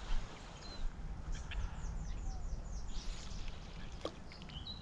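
A bird calling: a quick run of about eight short, falling, high-pitched notes a little over a second in, with a few more high notes near the end, over a steady low outdoor rumble.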